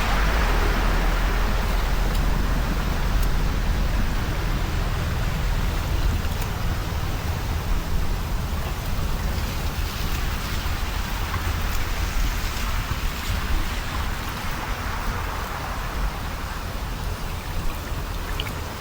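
Steady rain and water noise with a deep rumble underneath and scattered light ticks of drops, easing a little near the end.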